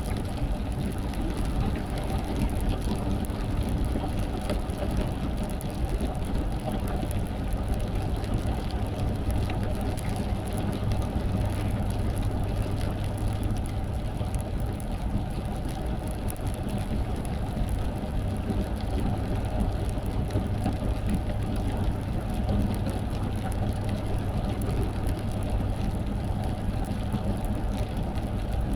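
Car driving in the rain: a steady low drone of engine and tyres on the road, with faint rain pattering on the car.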